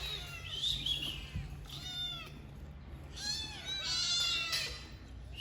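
Kittens mewing: repeated high-pitched, overlapping meows, several calls close together, with a faint low hum underneath.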